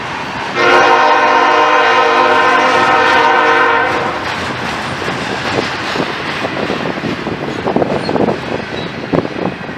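A train's air horn sounds one long blast, several notes at once, starting about half a second in and lasting about three and a half seconds, over the steady rumble of loaded double-stack intermodal well cars rolling past. After the horn the cars keep rolling by with irregular clanking and rattling over the rails.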